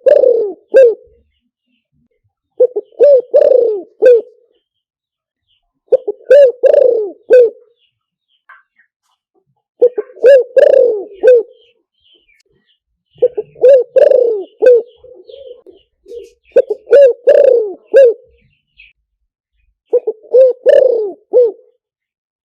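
Spotted dove cooing, a recorded lure call used to draw in wild doves. Each phrase is several short coos, repeated every three to four seconds.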